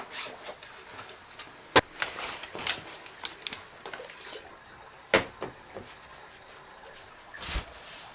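Small objects being handled and set down: a scatter of sharp clicks and knocks, two louder ones about two and five seconds in, and a duller thump near the end.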